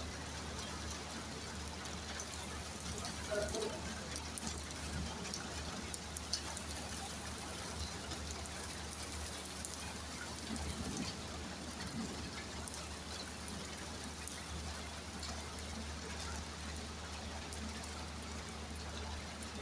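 Heavy rain falling: a steady hiss of rainfall with many separate drop hits on surfaces, over a steady low hum.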